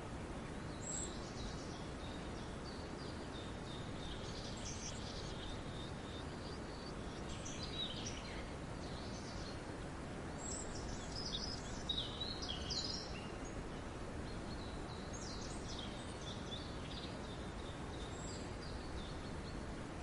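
Several small birds chirping and twittering in short, scattered phrases, high-pitched and busiest in the middle, over a steady background hiss.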